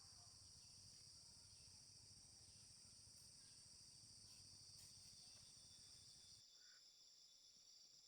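Faint, steady insect chorus: a high, continuous trill. A low rumble underneath cuts off abruptly about six seconds in.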